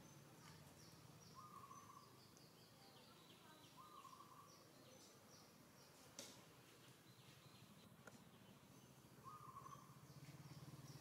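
Faint birds chirping, short calls repeated every second or so, with a single sharp click about six seconds in.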